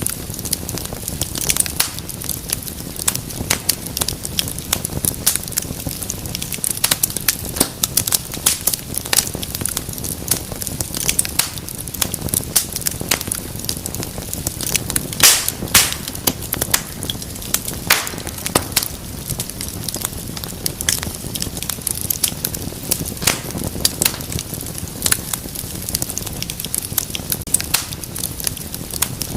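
Wood fire in a fireplace crackling, with irregular sharp pops over a low steady rumble of flames, and a louder burst of pops about halfway through.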